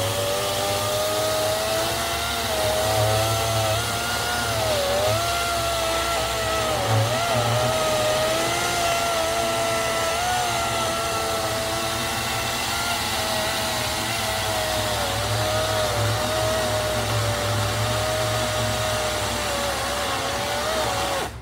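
EGO 56-volt battery chainsaw running at full speed through a log, its electric whine dipping in pitch now and then as the chain bites into the wood. Near the end it cuts off suddenly, stalling when pushed too hard in the cut.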